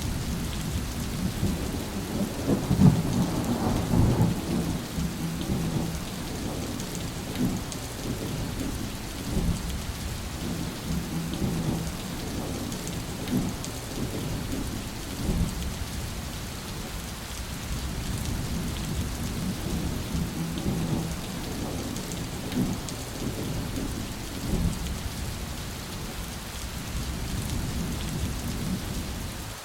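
Steady rain with rolling thunder. The rumbling comes and goes throughout and is heaviest about three to four seconds in.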